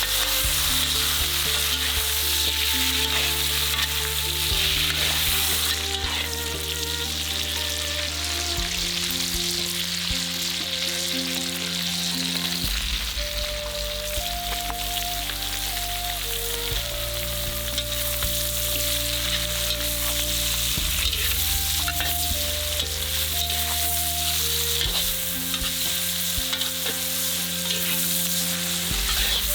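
Food sizzling as it fries in a pan, a continuous crackling hiss. Under it, a soft background music track of held chords changes about every four seconds.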